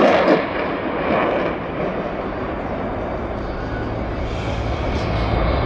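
Jet engine noise from an RAAF F-35A Lightning II in its display: a steady rush that eases about half a second in and swells again toward the end.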